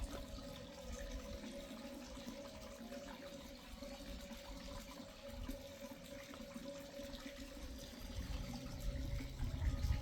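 Water running steadily, like a tap or spout pouring into a basin. A low rumble grows louder near the end.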